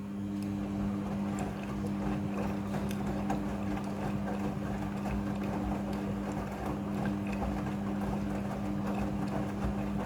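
Midea front-loading washing machine running: a steady, even motor hum over the noise of the drum and its load, with small clicks throughout. It starts abruptly at the outset.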